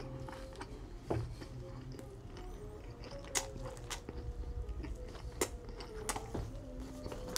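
A person chewing a mouthful of burger close to the microphone, mouth closed, with a few sharp wet smacking clicks about a second or two apart.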